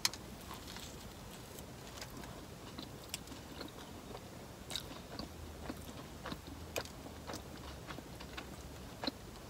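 A bite into a Subway turkey sub on Italian herbs and cheese bread with lettuce and cucumber, sharp right at the start, then close chewing with scattered small crunches and clicks.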